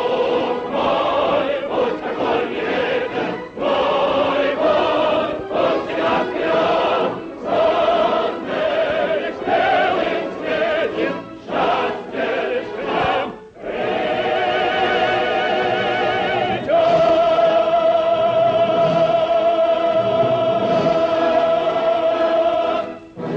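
A choir singing a song in short phrases separated by brief breaths, then moving into long sustained notes and closing on a long held final chord of about six seconds.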